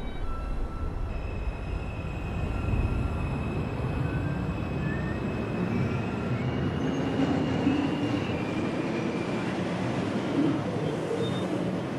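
R142 subway car pulling away from a station and gathering speed. The motor whine steps up in pitch in stages, over the steady rumble of wheels on rail.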